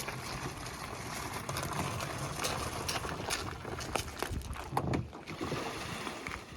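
Water splashing around a small dinghy being paddled, with irregular paddle strokes and slaps in steady wind and water noise; the outboard has failed, so there is no engine sound.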